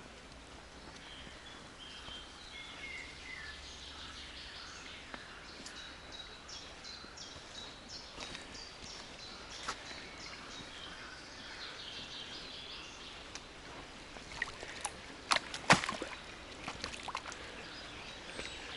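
Small songbirds chirping and singing in a forest. Footsteps on the forest floor, with a few sharp cracks about three-quarters of the way through, the loudest one standing out.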